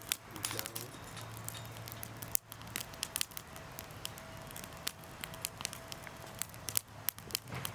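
Wood campfire crackling, with irregular sharp pops and snaps over a faint steady low hum.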